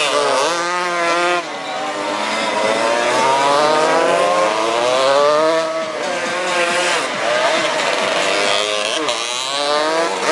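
Several 200 cc racing motorcycles running together, their engines revving up and down in pitch and overlapping.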